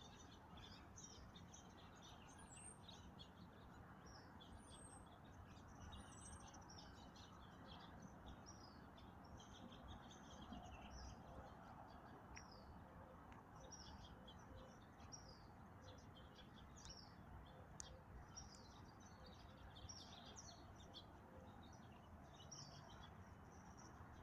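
Faint songbirds chirping and calling, a steady scatter of short high notes, with three brief high whistled notes in the first few seconds, over a low, even outdoor background hiss.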